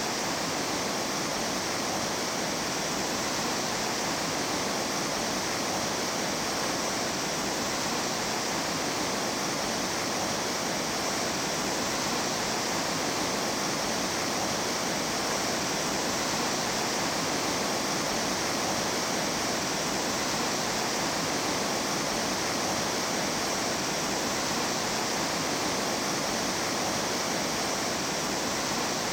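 Mountain stream water rushing steadily, an even, unbroken rush without other sounds.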